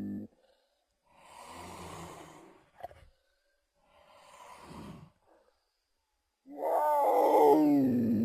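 Saber-toothed cat (Smilodon) creature sound effects: a roar cuts off at the start, then two breathy huffs with a short click between them, then a loud roar begins about six and a half seconds in and falls in pitch.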